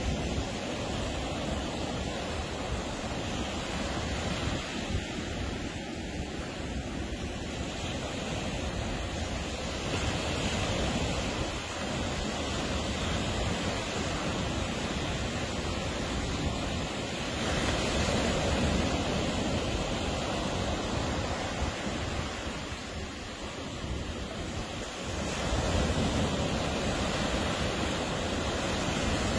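Atlantic surf washing onto the beach, a steady rushing noise that swells louder as each wave breaks, about every seven or eight seconds.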